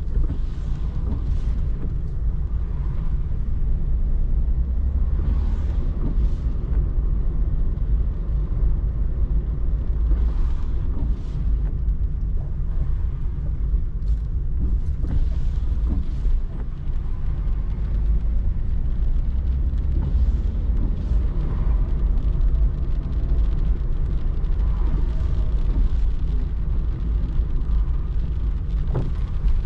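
Road noise inside a car driving on wet roads: a steady low rumble of engine and tyres, with brief hisses of spray rising now and then.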